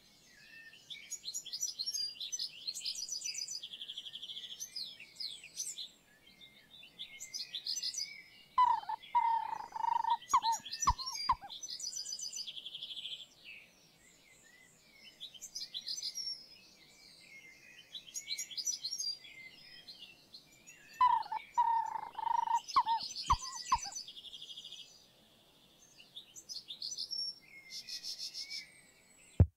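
Birds chirping and singing, many short high calls and trills overlapping, with a louder, lower call twice, about twelve seconds apart.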